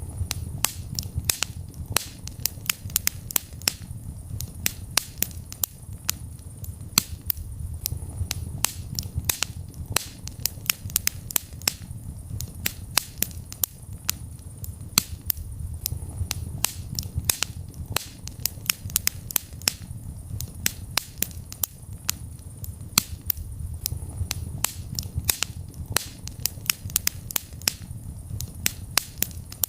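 Wood fire in a fireplace crackling: dense, irregular sharp pops and snaps, several a second, over a low steady rumble of the burning flames.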